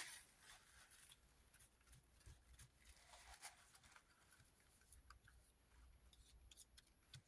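Near silence, with faint scattered ticks and rustles of paper being handled.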